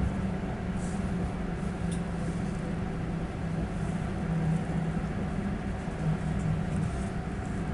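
Passenger train running along the line, heard from inside the carriage: a steady low hum with the rumble of the wheels on the rails.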